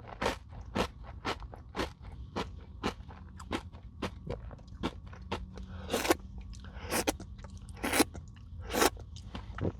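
Close-miked chewing of a crunchy Nature Valley granola bar dipped in yogurt: the hard oat bar cracking between the teeth in a steady run of crunches, two to three a second, with a few louder crunches in the second half.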